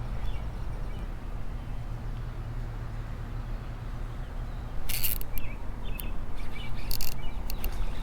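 Birds chirping over a steady low rumble, with several short, sharp hissing clicks from about five seconds in.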